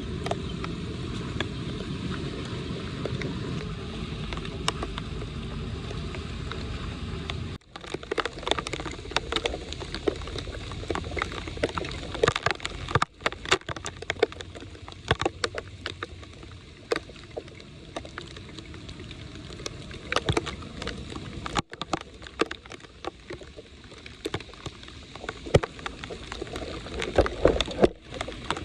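Floodwater gurgling and sloshing around a storm drain, with scattered splashes and scrapes of debris being cleared. There is a steady rushing for the first several seconds, then the sound breaks off and changes abruptly a few times into choppier splashing.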